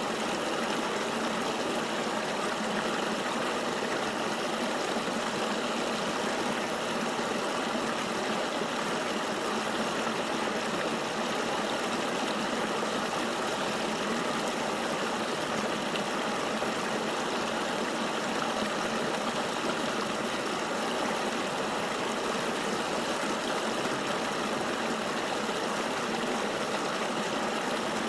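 A river flowing, a steady, even rush of water with little low rumble and no changes.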